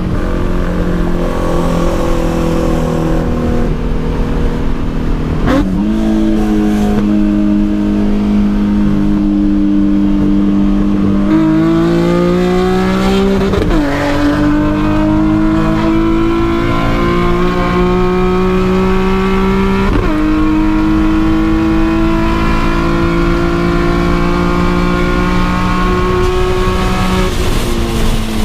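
Nissan 350Z's V6 engine driving under steady light acceleration. Its pitch climbs slowly and shifts at a gear change about three times.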